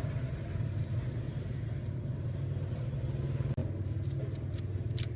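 A steady low mechanical hum. About three and a half seconds in it breaks off for an instant, and several sharp clicks follow, the loudest near the end.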